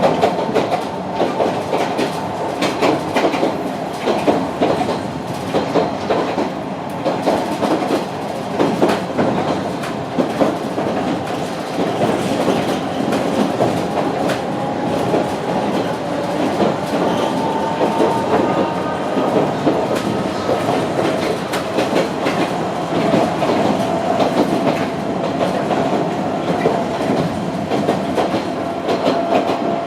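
Sangi Railway Hokusei Line narrow-gauge (762 mm) passenger car running at speed, heard from inside the car: a steady rumble with wheels clicking and rattling over the track. A thin high tone sliding slightly in pitch joins in over the second half.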